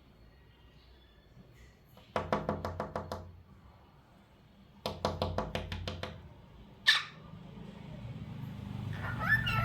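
Cockatiel making two bursts of rapid tapping, about ten strokes a second, then a single sharp chirp, and a warbling call near the end.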